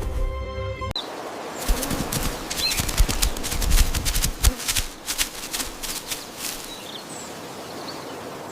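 Background music cuts off about a second in. A bird's wings then flap in a rapid fluttering flurry, with a few faint high chirps.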